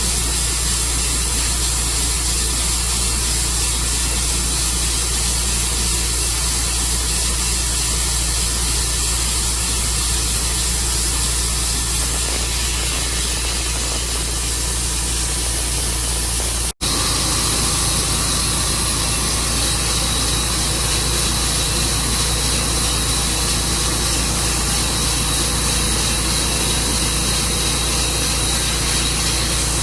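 Sawmill running steadily, its engine humming under the hiss of the blade cutting through a walnut log. The sound drops out for an instant about 17 seconds in and then resumes.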